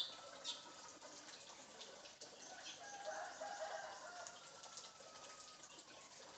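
African grey parrot making a few sharp clicks, then a soft, faint clucking call with a thin, slowly falling whistle-like tone after it.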